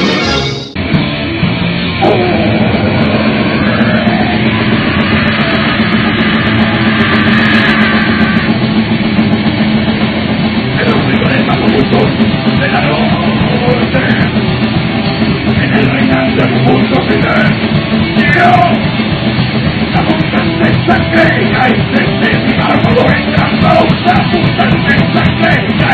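Thrash metal band playing an instrumental passage with electric guitars, loud and dense. It kicks in at full force about a second in, after a brief drop.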